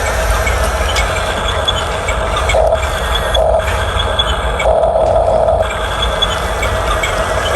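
Radio-controlled toy construction vehicle's electric motors and plastic gearing running with a steady mechanical clatter. A higher motor whine swells in briefly several times, the longest for about a second.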